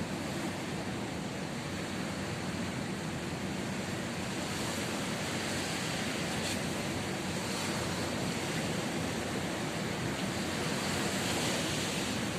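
Ocean waves breaking and washing on the shore, a steady rush of surf that swells slightly toward the end.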